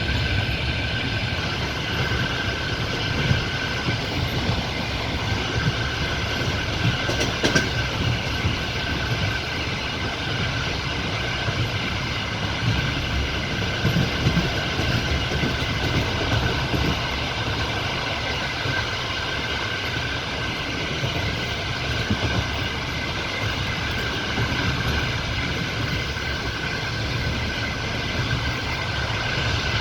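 Passenger train carriage running at speed: a steady rumble of wheels on the rails with a constant ringing hum, and one sharper click about seven seconds in.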